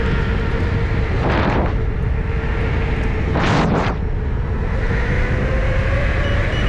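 Electric unicycle riding at speed: wind rushing over the rider's microphone and a faint motor whine that rises a little in pitch about five seconds in as it speeds up. Two brief loud whooshes come through, about a second and a half and three and a half seconds in.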